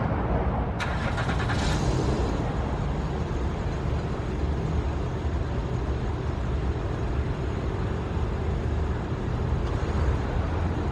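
Steady rumble of road traffic. About a second in there is a sharp click, followed by a brief rattle.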